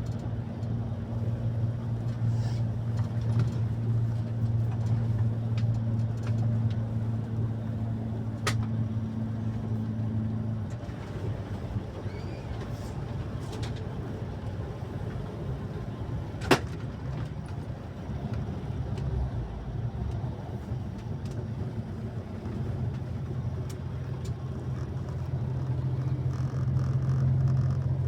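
An engine running steadily with a low hum. The hum fades about eleven seconds in and returns stronger near the end, and there is a single sharp click about halfway through.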